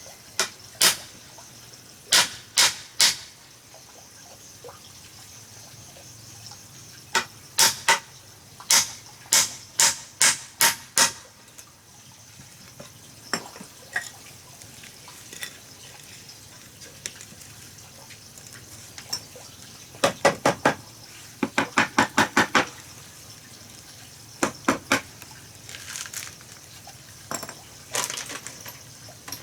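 Sharp taps or knocks in irregular runs, some slow at about two a second and one quick rattle of about seven a second, over a steady hiss.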